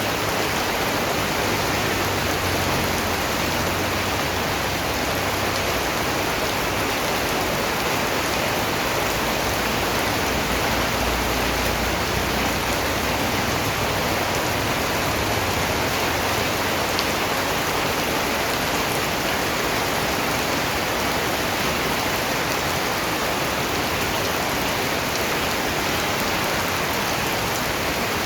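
Steady, even rainfall, a dense patter of raindrops on a surface that stays the same throughout.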